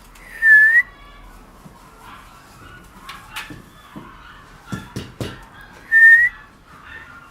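Two short, loud whistled notes about five and a half seconds apart, each a clear single tone that dips and then rises, with a few soft knocks in between.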